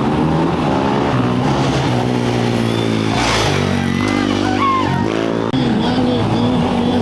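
Off-road race motorcycles' engines revving, their pitch climbing and falling as the bikes accelerate away, with a short louder rush about three seconds in as one passes.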